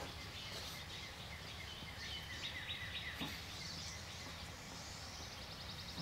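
Faint distant songbirds chirping over a steady outdoor background hiss, with a quick trill near the end.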